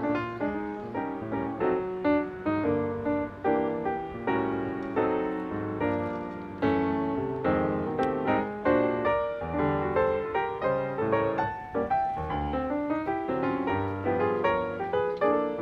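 Background piano music: a continuous piece of struck notes that start sharply and fade.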